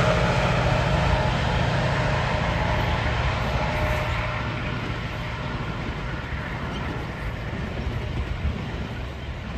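GO Transit commuter train, a diesel locomotive with bilevel coaches, running past on the track and drawing away. The engine hum and wheel noise fade steadily.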